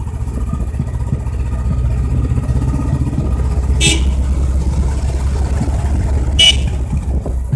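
Royal Enfield single-cylinder motorcycle engine running steadily, heard from the rider's helmet. A horn sounds in two short toots, about four seconds in and again near the end.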